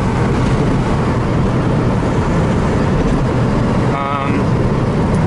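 Turbocharged Subaru driving along, heard from inside the cabin as a steady, loud mix of engine and road rumble.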